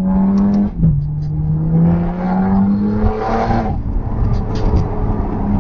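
Car engine accelerating hard, heard from inside the cabin, its pitch climbing. About a second in it drops with an upshift, then climbs again and falls away after about four seconds.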